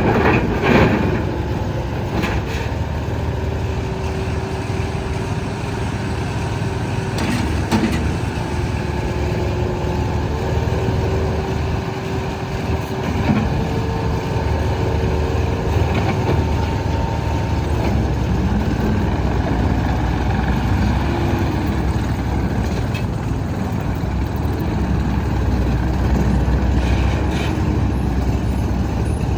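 Case TV380 skid steer loader's diesel engine running steadily, with a low rumble throughout and a few brief knocks.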